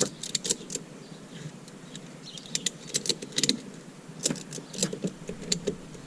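Metal hooks and buckle of a motorcycle tie-down strap clinking and rattling in irregular clusters as the strap is pulled tight.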